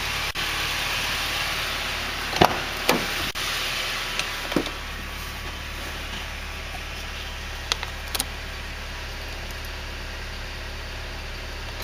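Toyota Hiace Regius's 3RZ-FE 2.7-litre inline-four engine idling steadily, with a few short knocks and clicks over it in the first half and two fainter ones later.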